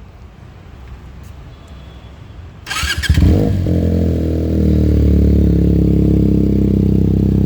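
Benelli TNT 300's 300 cc inline-twin engine with an Akrapovič exhaust starting: after a few quiet seconds, a brief starter crank about three seconds in, then the engine catches and settles into a steady idle.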